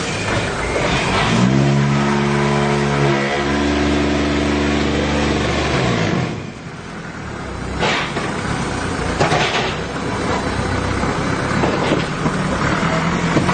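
An engine or motor revs up, holds a steady pitch for a few seconds, then winds down. After that comes a noisier machine-and-clatter background with scattered knocks.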